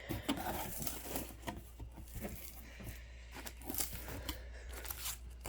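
Cardboard box packaging being handled and rummaged through as its contents are lifted out: scattered rustles, crinkles and light knocks of paper and cardboard.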